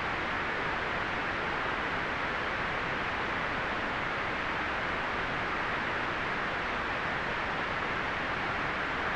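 Synthetic white noise: a steady, unchanging hiss, strongest in the upper middle range and dull at the very top.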